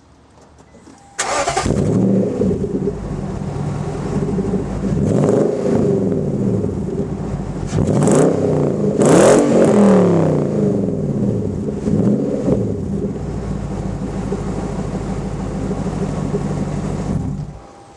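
2004 Nissan Titan's 5.6-litre V8 starting about a second in through a true dual exhaust with an 11-inch Magnaflow muffler and side-exit resonated tips. It settles to idle and is revved in short blips several times, then is switched off near the end.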